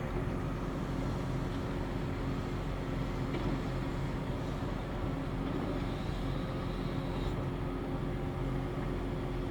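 Heavy diesel earthmoving machinery running steadily: a low, even engine drone with a constant hum.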